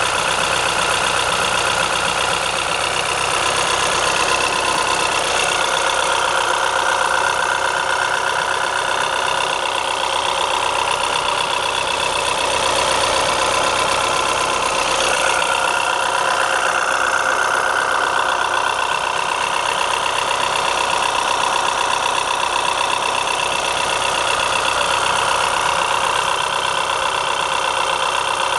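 A vehicle engine running steadily at idle, without revving.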